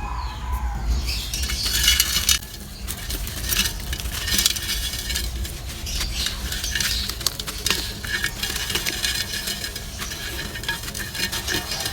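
Dry, crumbly material being crushed and crumbled in a clay pot: a steady gritty crackle of many small sharp ticks and crunches, with a short lull about two seconds in.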